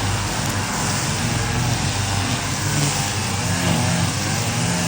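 An engine running steadily: a constant low hum under a wide, even hiss.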